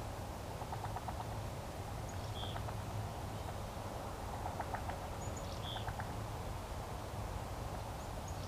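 Outdoor animal calls: several short trains of rapid clicking calls, and a brief high note that comes back about every three seconds, over a steady low background hum.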